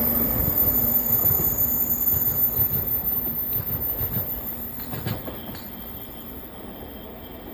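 813 series electric train running along the track and moving away, its sound fading steadily. A few clacks from the wheels over the rails come in the middle.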